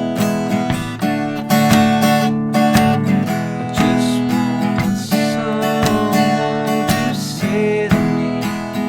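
Acoustic guitar strummed in a steady down-and-up pattern, moving between E and D chords.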